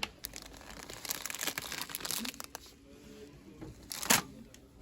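Plastic crinkling and rustling as it is handled, in irregular bursts, with one sharp loud crackle about four seconds in.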